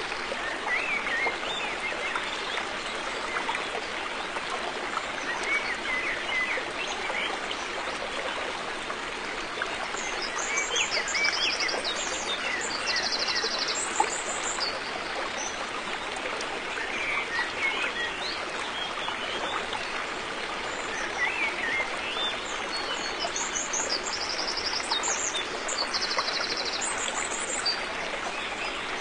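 River water flowing steadily. Small birds chirp and give short, rapid high trills now and then, mostly in the middle and near the end.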